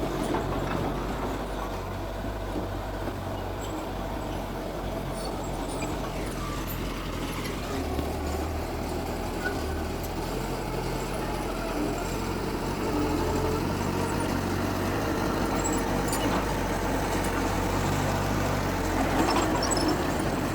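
Diesel engines of earthmoving machinery running steadily. The engine note shifts about a third of the way in, and the sound grows louder about two thirds of the way through.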